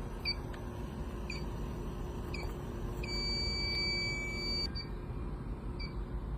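Electronic beeper giving short high beeps about once a second, with one long steady beep lasting nearly two seconds in the middle, over a steady low hum.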